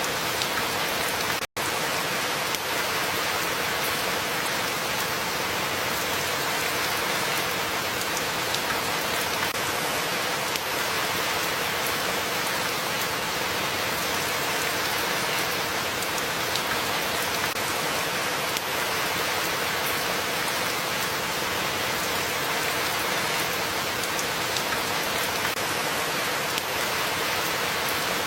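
Steady rain falling on a surface, an even hiss with scattered raindrop ticks. The sound cuts out completely for an instant about a second and a half in, then carries on unchanged.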